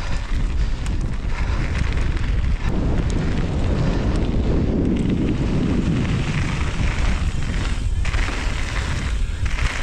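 Strong wind buffeting the microphone of a mountain bike POV camera, a heavy, steady rumble that swells around the middle, over tyre and trail noise with scattered light clicks and rattles from the bike.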